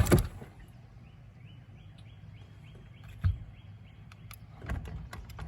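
A run of short high chirps, about three a second, from a small animal calling, with a single sharp knock partway through and a few faint clicks near the end.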